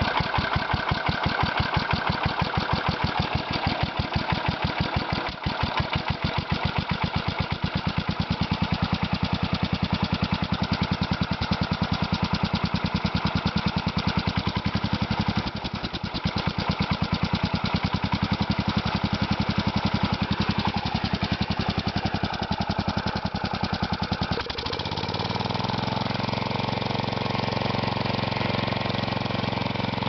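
Kohler Magnum 16 hp single-cylinder engine (K361 block) idling very low through a leaky muffler, each firing pulse heard separately; the idle is really low and does not sound the healthiest. About 25 seconds in it picks up speed and settles into a smoother, steady run.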